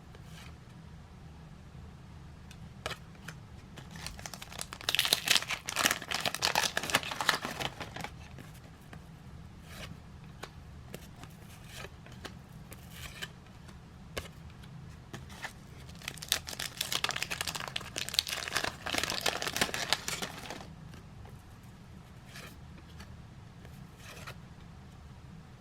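Trading card pack wrappers crinkling and tearing as packs are torn open and handled, in two long bursts about five seconds and sixteen seconds in, with a few small clicks and rustles between them.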